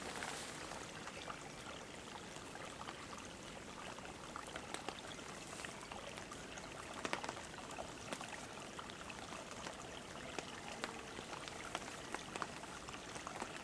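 A small forest stream trickling steadily, with light rain dripping in scattered ticks.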